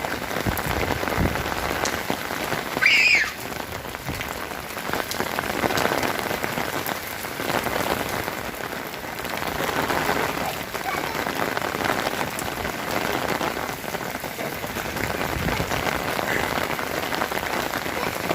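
Rain falling steadily, with a child's brief high-pitched squeal about three seconds in.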